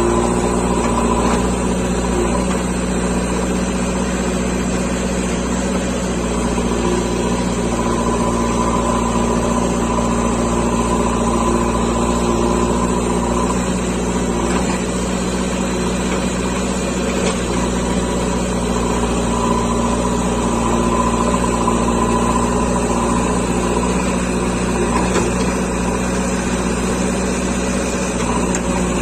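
JCB 3DX backhoe loader's diesel engine running steadily while working, with a higher whine that comes and goes several times.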